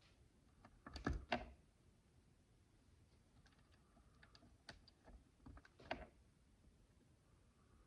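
Tiny plastic micro bricks clicking as they are handled and snapped together: a loud cluster of clicks about a second in, then scattered lighter clicks a few seconds later.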